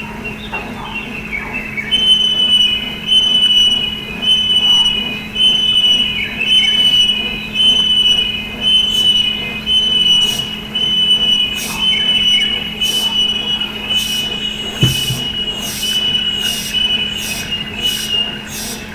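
A songbird repeating a high, clear whistled note over and over, a little faster than once a second, with rapid high clicking notes near the end.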